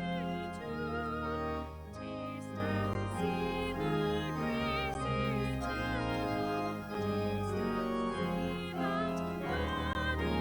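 Church music: a melody with strong vibrato over held organ chords.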